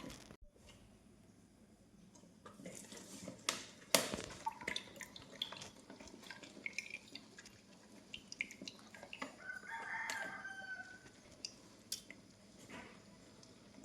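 Scattered light clicks and knocks of kitchen work, the sharpest about four seconds in, with a short pitched call, like a bird's, at about ten seconds.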